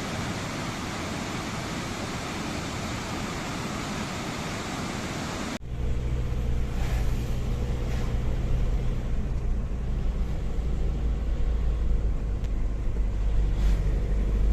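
A waterfall's steady rush of water. About five seconds in, it cuts abruptly to the low, steady drone of engine and road noise heard inside a moving car.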